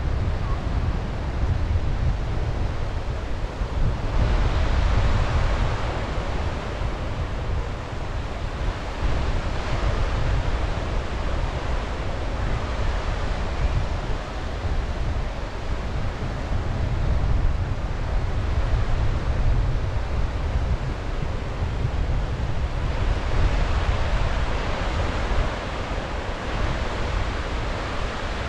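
Sea waves breaking and washing on the shore, swelling in surges, with wind buffeting the microphone as a steady low rumble.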